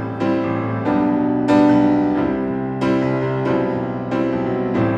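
Solo piano playing an instrumental passage between sung lines of a ballad: a run of struck chords and notes, each ringing on.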